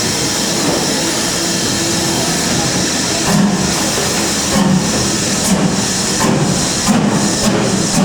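Steam train noise with a loud, steady hiss of steam. From about three seconds in, regular low pulses come in, roughly one a second.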